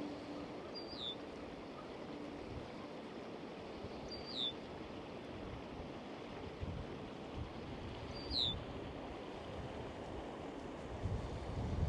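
A bird gives a short, high, falling call three times, about four seconds apart, over a steady rushing outdoor background noise.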